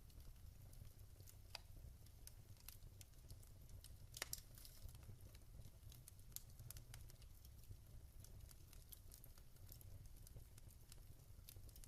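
Wood fire crackling in a fireplace, quietly: scattered sharp pops and snaps over a low steady rumble, with a louder cluster of pops about four seconds in.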